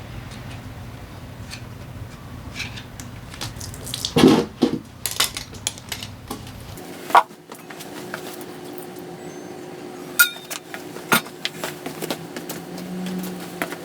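Metal tools and engine parts clinking and knocking during disassembly of a Honda PCX 125 scooter engine: scattered sharp clinks, with a louder cluster about four seconds in, over a steady low background hum that shifts abruptly about halfway through.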